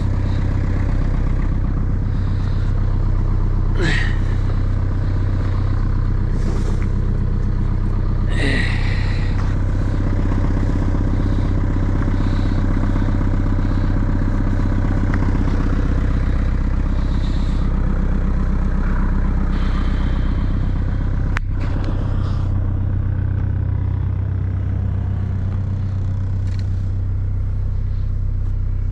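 Boat engine running at a steady, even speed with a low hum, and a few short knocks scattered through it.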